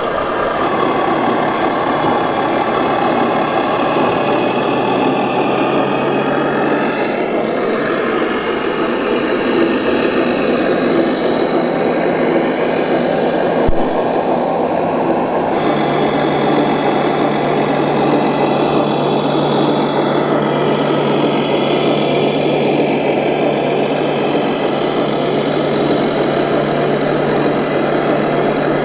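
Radio-controlled scale model trucks and construction machines running, a steady engine-like drone. A low hum under it steps up in pitch twice, about six and fifteen seconds in.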